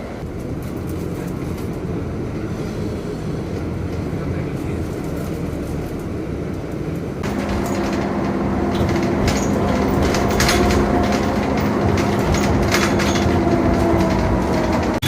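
City bus on the move: steady engine and road rumble. About seven seconds in, an engine hum with several steady tones joins it, along with rattling clicks.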